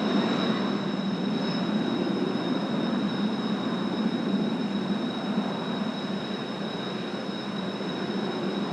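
Jet engines of Blue Impulse T-4 trainers running with a steady rumble and a constant high whine, slowly fading.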